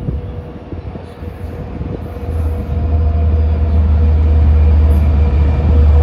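DE30AC diesel-electric locomotive running, with a deep low engine drone that comes in about two seconds in and keeps growing louder, as if the engine is throttling up.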